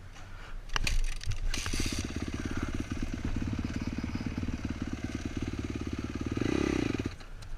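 Dirt bike being kickstarted: a few sharp clatters about a second in, then the engine catches and runs with an even beat, revs up briefly near the end and stops abruptly.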